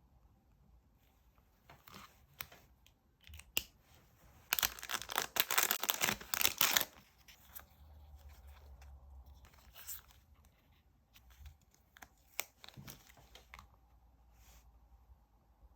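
Paper being torn: a crackling rip lasting about two seconds, the loudest sound here, amid light clicks and rustles of paper and stickers being handled.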